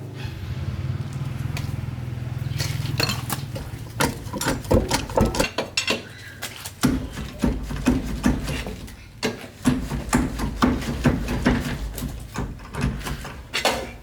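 Irregular knocks and clanks of metal tools and parts being handled during truck repair work, starting a couple of seconds in and coming in quick clusters, over a steady low hum.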